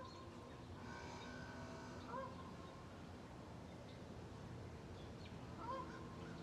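Faint short bird chirps, three of them a few seconds apart, over a low steady background hum.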